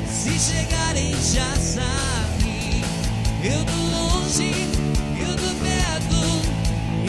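Rock song with a lead singer over a full band.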